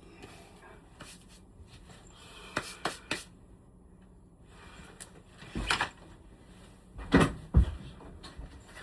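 Handling knocks on hard objects: three quick sharp clicks about two and a half to three seconds in, a knock near six seconds, then two heavier thumps a little after seven seconds.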